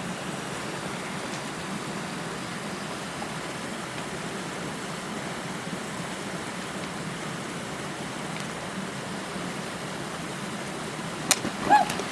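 Fast creek water rushing steadily. Near the end comes a sharp click, then a brief cry.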